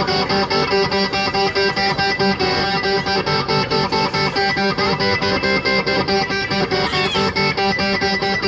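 Live band music: a guitar intro of quick, evenly repeated picked notes over held chords.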